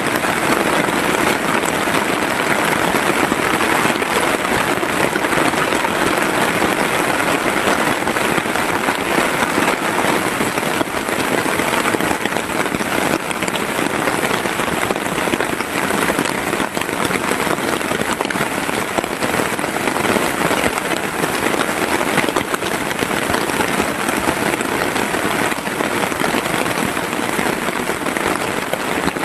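Heavy rain falling steadily and loudly, a dense unbroken hiss of countless drops striking a surface.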